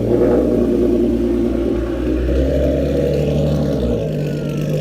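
Ford Mustang's 3.7-litre V6 with a Roush off-road X-pipe and no catalytic converters, running at steady revs; its note shifts about four seconds in.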